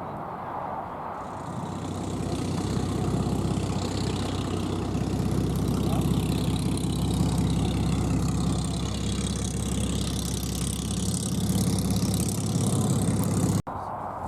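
An engine running steadily; it swells up about a second and a half in and cuts off abruptly near the end.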